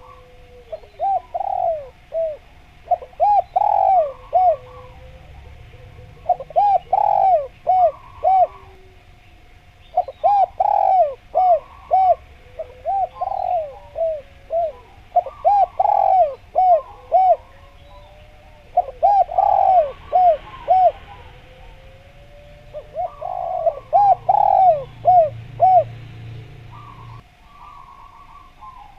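Spotted dove (derkuku/tekukur) cooing in repeated phrases: each is a quick run of several coo notes, coming every few seconds, over a steady faint tone.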